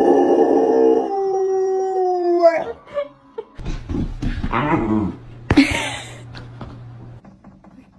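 A dog howling: one long howl that rises at the start, holds, and sags slightly before breaking off about two and a half seconds in. Shorter yelping sounds follow, with a brief sharp noise about five and a half seconds in.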